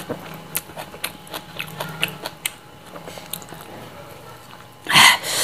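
Close-up chewing and lip-smacking of a mouthful of rice and stir-fried greens: a run of small wet clicks. About five seconds in, a sudden loud hiss of breath sucked in through the teeth at the chili heat.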